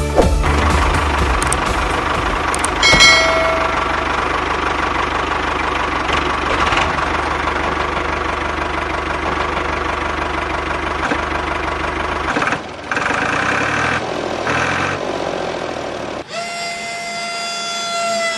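A motor running steadily with a dense rattling hum. Near the end it gives way to a steady high whine.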